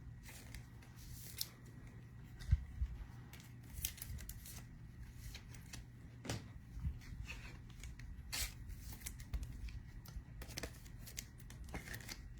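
Trading cards and packs being handled: scattered soft clicks, rustles and brief swishes as cards are slid, shuffled and sorted, over a low steady hum.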